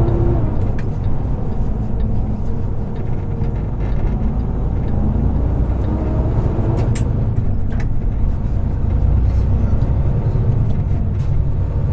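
Semi truck's diesel engine running and road noise as the truck drives, heard from inside the cab: a steady low rumble, with two sharp clicks about seven seconds in.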